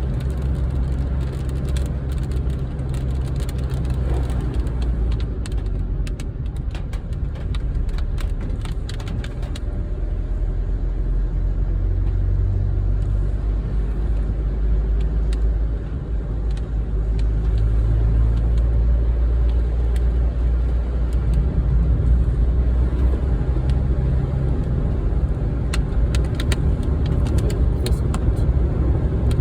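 A car driving, heard from inside: a steady low road-and-engine rumble, with scattered light ticks in two stretches.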